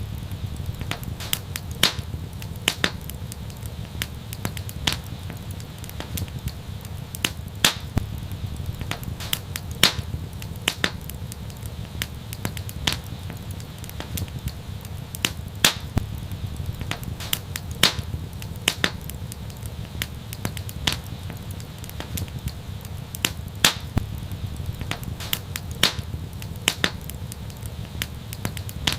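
Wood fire crackling: sharp, irregular pops, one to three a second, over a steady low rumble.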